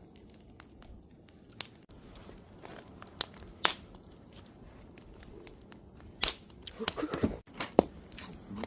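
Wood campfire crackling, with scattered sharp pops over a low hiss; the pops come thicker in the last few seconds, the loudest a little under eight seconds in.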